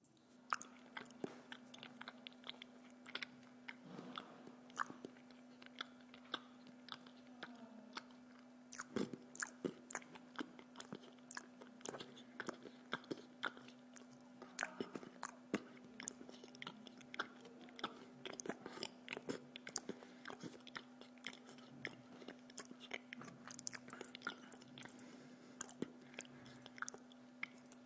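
Close-up chewing: a mouth working on food, giving many irregular sharp clicks and small crunches, over a steady low hum.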